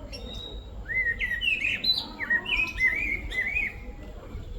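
Pet bird chirping: a quick run of short arching whistled notes that begins about a second in and lasts about three seconds.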